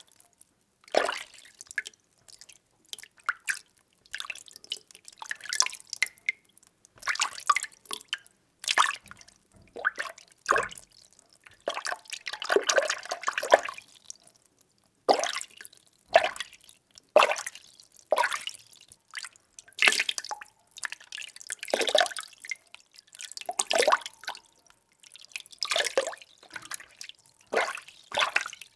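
Water being stirred by hand, sloshing and splashing in short, irregular bunches of strokes separated by brief pauses.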